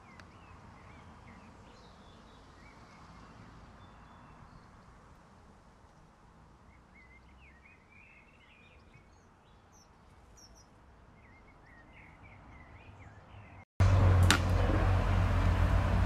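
Faint, scattered bird chirps and short calls over a quiet background. Near the end the sound cuts abruptly to a much louder noise with a steady low hum.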